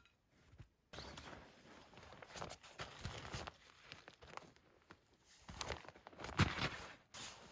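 Footsteps crunching through snow, irregular, starting about a second in, with one louder crunch near the end.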